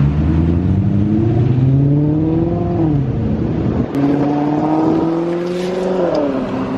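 Car engine accelerating on the road, its note climbing through the revs and dropping at gear changes about three and six seconds in.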